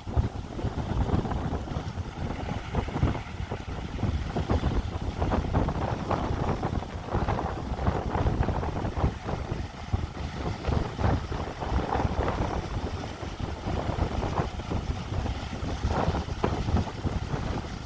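Strong typhoon wind buffeting the microphone: a loud, gusty low rumble that swells and dips every second or so.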